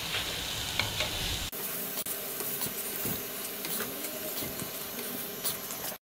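Potato patties sizzling in shallow oil on a flat griddle pan, with light scrapes and taps of a spatula as they are lifted out. The sound stops suddenly near the end.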